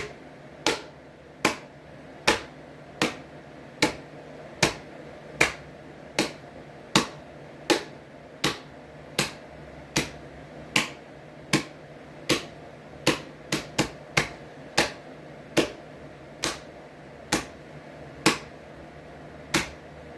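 Hands clapping down on a ceiling fan blade held between them, a steady series of sharp claps at about one and a half a second. The claps come a little closer together about two-thirds of the way through.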